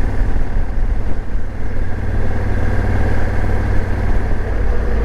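Motorcycle engine running steadily at a constant cruising speed on the road.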